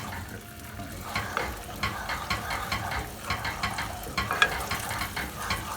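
Curry base sauce sizzling in a hot pan while a spoon stirs it, with frequent short scrapes and clicks of the spoon against the pan.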